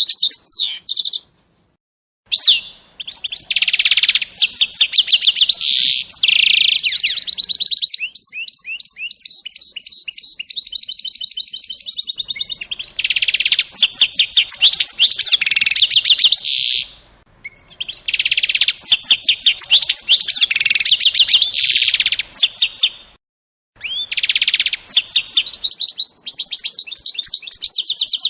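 A small songbird singing long phrases of rapid trills and rolls, high-pitched, in several bursts broken by short pauses of under a second.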